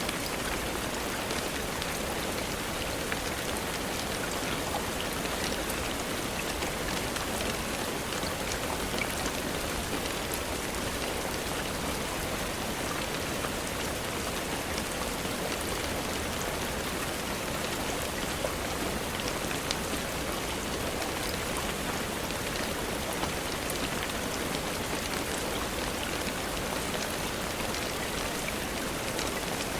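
Steady rainfall, an even hiss with scattered small sharp ticks throughout.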